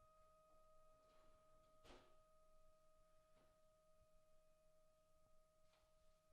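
Near silence with a faint, steady high tone and its octave sounding throughout, and a few soft brief swishes.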